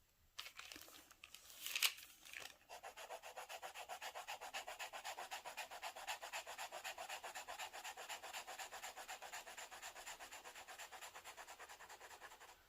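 A pen nib scratching quickly back and forth on paper in even strokes, about ten a second, as if scribbling or shading. A single louder scrape comes just before.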